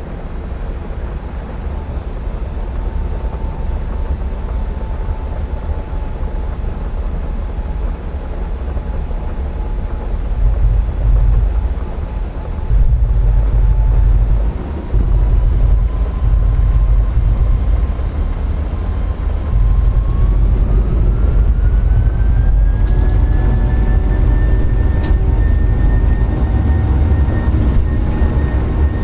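Boeing 737 jet engines running with a steady whine that rises in pitch about twenty seconds in as the engines spool up, over heavy gusting wind rumble on the microphone.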